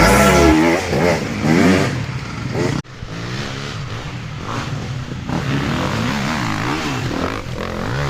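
Enduro motorcycle engines revving up and down as the bikes ride, with a sudden break about three seconds in.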